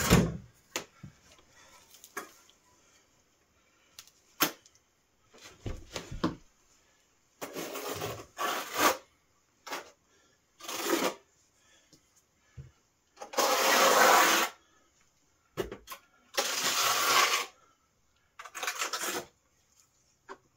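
Hand-work noise: a series of rough scraping strokes, each about half a second to a second and a half long, with a few sharp knocks between them. This fits tile adhesive being spread onto stone wool insulation boards with a trowel.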